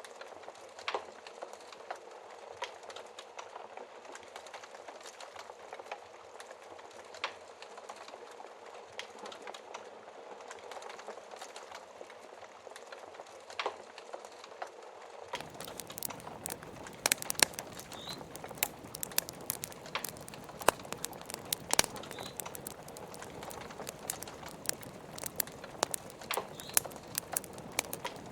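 Wood fire crackling in a fireplace over a steady hiss of rain, with scattered sharp pops; about halfway through the sound gets fuller and the pops come louder and more often.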